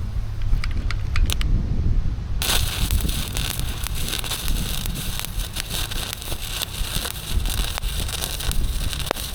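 Electric welding arc crackling and sizzling in a steady run, starting about two seconds in and cutting off near the end, over a steady low rumble.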